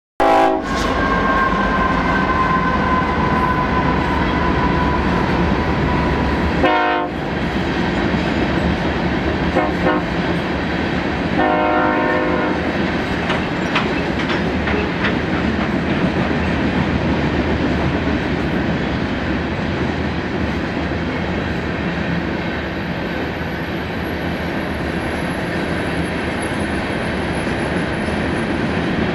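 BNSF freight train of covered cement hopper cars rolling past with a steady rumble of wheels on rail and a clicking over the rail joints. A locomotive horn sounds right at the start and trails off, dropping slightly in pitch over about six seconds. Shorter horn sounds come around 7, 10 and 12 seconds in.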